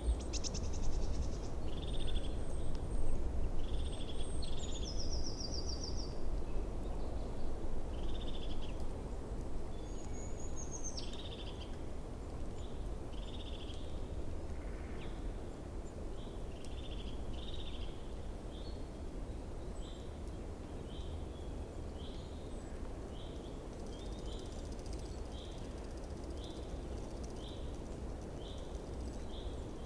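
Small birds chirping outdoors: a steady run of short chirps, about one a second and coming faster in the second half, with a few higher trills in the first ten seconds, over a low steady background rumble.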